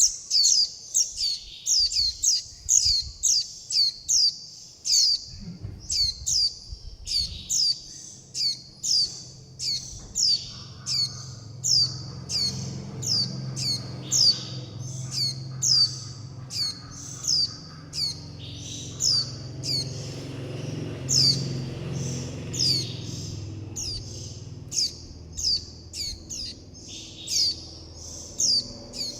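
Young white-eye begging and contact calls: short, high, downward-sliding chirps repeated about twice a second without a break. A faint low hum sits underneath through the middle.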